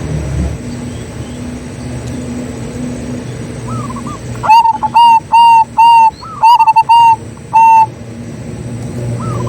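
Zebra dove (perkutut) cooing: a burst of about seven loud, short, even-pitched notes from about the middle to about three quarters of the way through, with softer curling notes just before it and near the end. A steady low rumble sits underneath.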